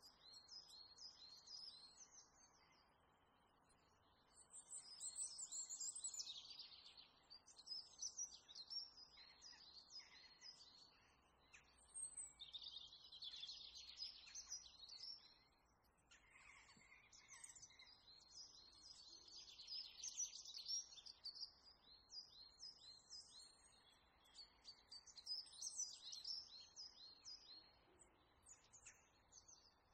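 Faint birdsong: many short chirps and trills from several birds, coming in bursts of a few seconds with short pauses between them.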